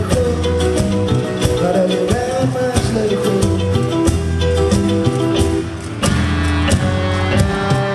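Live band music with guitar, playing an instrumental passage between sung lines.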